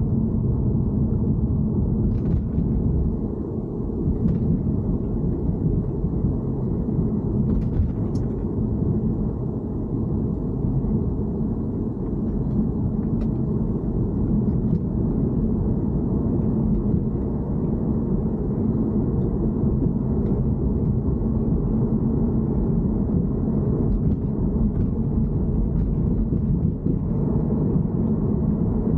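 BMW E90 3 Series car running, a steady low rumble, with a few faint ticks about two and eight seconds in.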